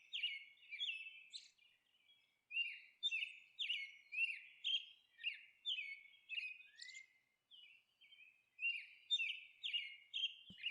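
Small birds chirping: a quick run of short, high chirps, each with a little dip in pitch, going on with a pause of about a second and a half partway through.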